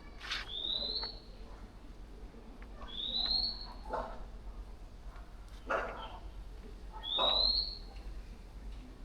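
A bird repeats a short, rising whistled call every few seconds, three times in all. A few short scuffing or knocking sounds fall between the calls, and the loudest of them come in the second half.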